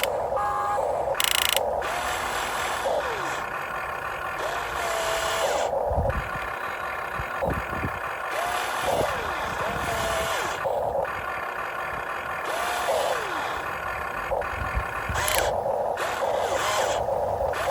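Small electric motors of a Huina 1592 RC excavator whining and repeatedly rising and falling in pitch in short strokes as the boom, arm and bucket work. A few short louder bursts of noise are mixed in.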